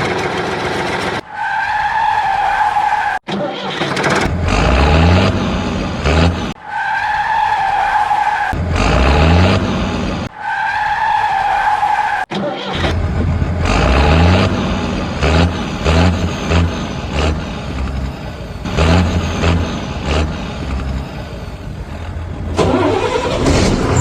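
Vehicle engine sound effects laid over the toy action: an engine revving in short repeated pulses with quick rising pitch, alternating three times in the first half with a steady, wavering high whine. In the second half the engine sound runs on with uneven pulses.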